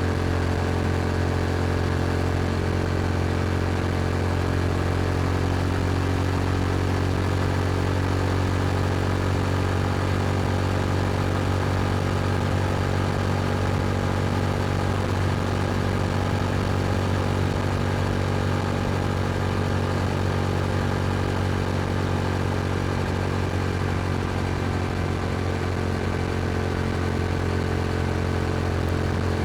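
Yamaha YZF-R7's 689 cc parallel-twin engine running through an aftermarket Akrapovic exhaust at a steady cruise, with its revs holding almost constant.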